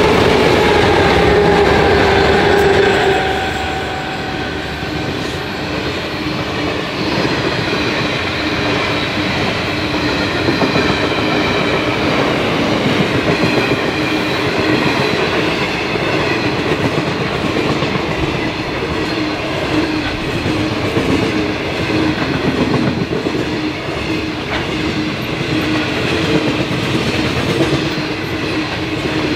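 Diesel freight locomotive passing close by, its engine note loud and dropping away within the first few seconds. Then a loaded grain train's hopper wagons roll steadily past, with wheels rumbling on the rails, some clickety-clack and a faint high ringing.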